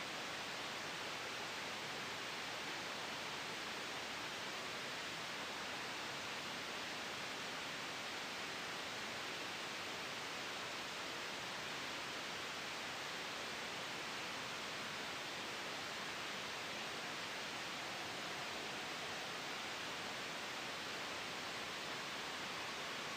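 Steady soft white noise with a gentle wind sound blended in, an even, unchanging hiss that sits mostly in the upper middle range.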